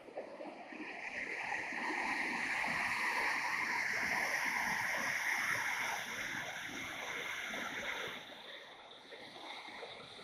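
Mumlava waterfall's water rushing and splashing, a steady hiss that swells over the first two seconds, then drops a step about six seconds in and again near eight seconds.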